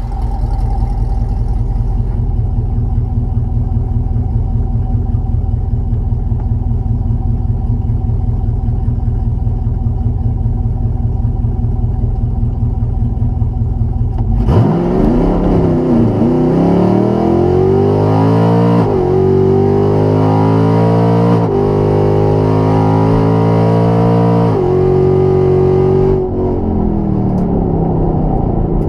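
Car engine idling steadily, then about halfway through launched at full throttle on a drag-strip pass. The engine note climbs and drops back three times as it shifts up through the gears, then falls away near the end as the driver lifts off.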